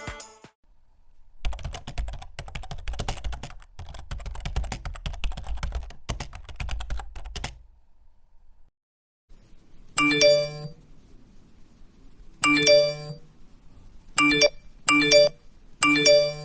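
Sound effects laid over the edit: a rapid run of clicks, like typing, for about six seconds, then five short buzzy electronic tones, the last three in quick succession.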